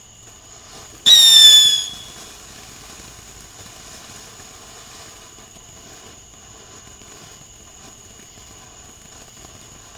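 A firework's whistle: a single loud shrill whistle starting about a second in, sliding slightly down in pitch and dying away within a second. A faint, steady high-pitched whine continues underneath.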